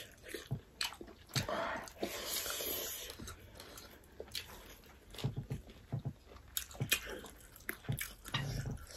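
Mouth sounds of people chewing grilled pork and rice eaten by hand: soft smacks and clicks scattered irregularly, with no steady rhythm.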